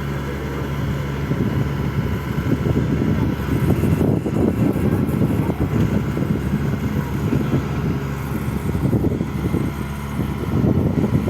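Bobcat skid-steer loader engine running, steady at first, then louder and rougher from about two seconds in.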